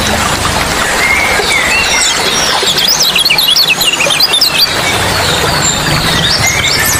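Many small birds chirping and whistling in quick, overlapping phrases over a steady rush of flowing water.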